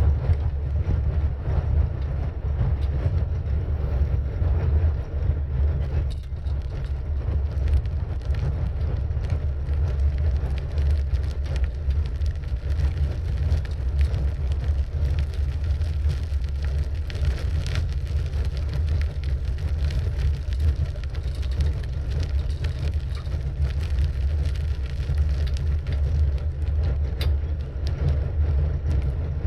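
Riding noise picked up by a camera on a moving bicycle: wind rushing over the microphone as a steady low rumble, with road noise and scattered small clicks and rattles.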